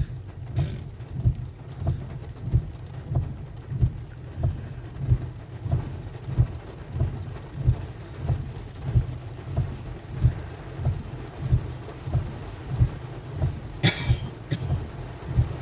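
Heavy rain on a car, with a low thump about one and a half times a second, typical of windscreen wipers on fast speed. A short, sharp, louder noise comes near the end.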